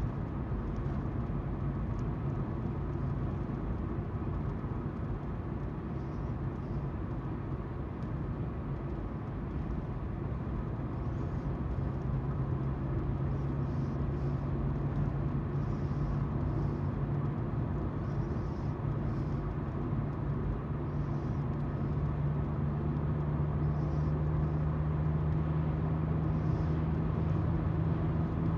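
Car driving, heard from inside: steady tyre noise on the road with the engine's hum underneath, the engine note climbing a little in pitch about a third of the way in and again past the middle.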